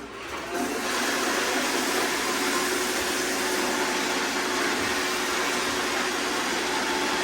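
Several robot vacuums, including iRobot Roombas and a Shark, running together on a hard floor scattered with rice: a steady whir of suction motors and brushes that swells over the first second as they get going, then holds.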